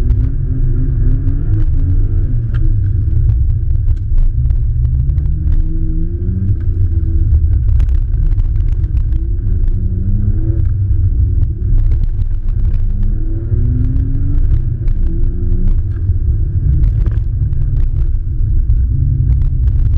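Nissan Skyline R32 GT-R engine pulling hard through an autocross course, heard from inside the car and muffled: a heavy low rumble, with the engine pitch climbing and falling again every few seconds as the car accelerates and lifts between corners, plus scattered light ticks.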